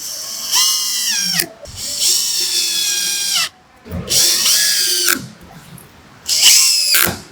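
Handheld power drill run in four short bursts, its motor whine bending in pitch under load and dropping quickly each time the trigger is released.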